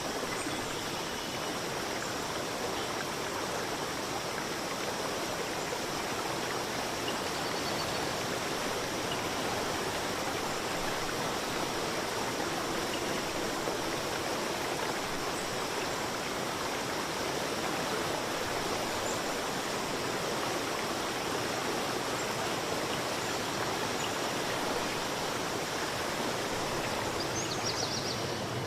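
River water flowing over rocks, a steady rushing. A few faint high bird chirps come through near the end.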